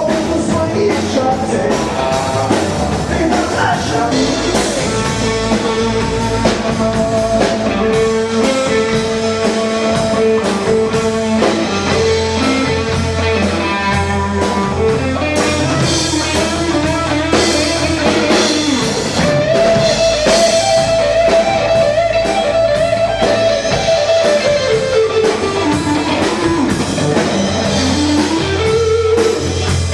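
Live rock band playing: a guitar lead with long held and bending notes over bass and drums, with a rising bent note near the end.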